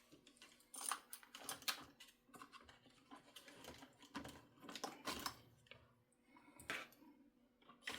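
Faint, irregular light clicks and clatters of small tools and soldering gear being handled and set down on a workbench as they are put away.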